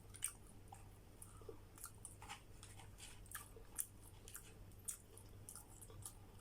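Faint pizza chewing: irregular soft crunches and small mouth clicks, over a low steady hum.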